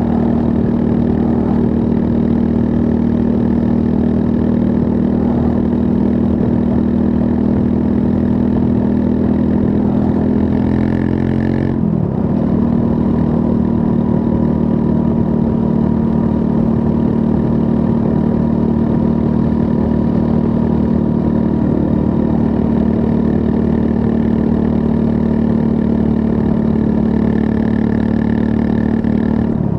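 Triumph Scrambler 400 X's 398 cc single-cylinder engine running steadily while riding, heard from on the bike. About twelve seconds in, its note rises a little, breaks briefly and settles back to a steady pitch.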